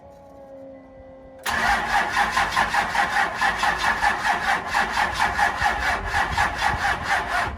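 An engine cranking over on its electric starter after a cold sit, starting about a second and a half in: a loud, steady, even chug of about five or six beats a second that does not catch and rev up.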